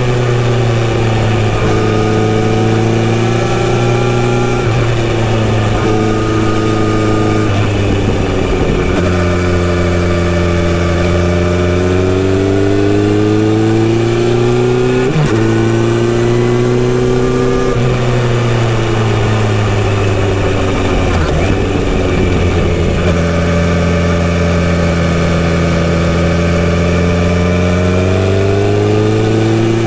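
Kawasaki Z900RS inline-four engine with a full-system exhaust, heard while riding. The pitch rises and eases with the throttle, with sudden drops a few times as gears change.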